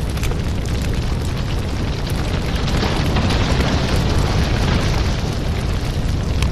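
Burning firewood crackling: frequent sharp pops and snaps over a steady low rumble of the flames, swelling a little louder about three to five seconds in.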